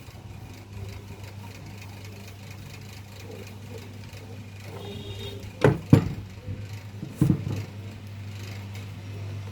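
Table fan's electric motor giving a steady low mains hum, with three sharp knocks a little past the middle, two in quick succession and one more about a second and a half later.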